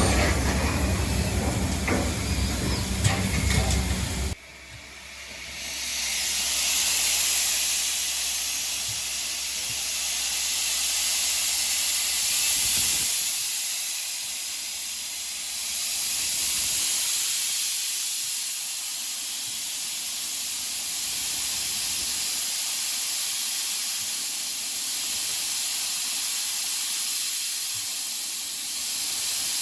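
Steam locomotive letting off steam: a strong, steady hiss that swells in about five seconds in and rises and eases slowly. Before it, a louder rumble with a low hum cuts off abruptly about four seconds in.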